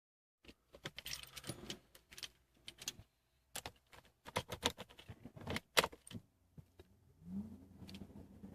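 Car keys jangling and clicking on their keyring as the key is handled at the ignition. About seven seconds in, a low hum rises briefly in pitch and then holds steady and faint.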